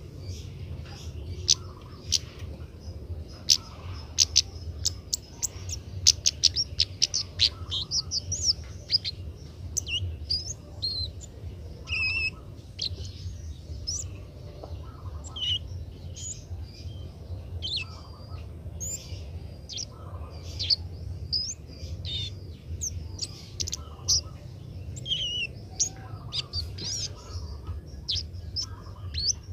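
Kemade bird chirping and twittering in many short, sharp notes, with a quick run of clicking notes a few seconds in. A young bird's practice song. A steady low hum lies underneath.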